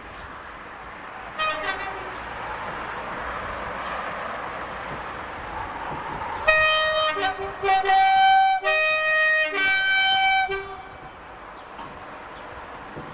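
Two-tone air horns of British Rail Class 37 diesel locomotives: one short blast about a second and a half in, then a run of alternating low and high notes lasting about four seconds. The locomotives' diesel engines run steadily underneath.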